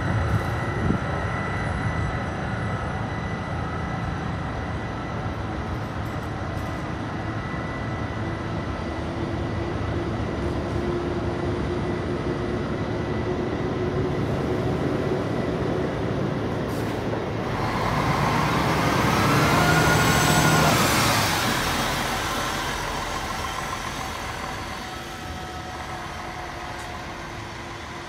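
Train noise at a railway station: a steady rumble with a faint whine. Then a train passes close by, swelling to the loudest point about two-thirds of the way in, its pitch bending up and down before it fades away.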